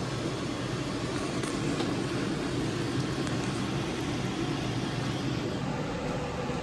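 A steady low rushing hum with no distinct knocks or clicks.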